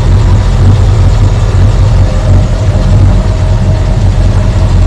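The 302 cubic-inch two-barrel V8 of a 1973 Ford Mustang idling steadily, heard close up in the open engine bay.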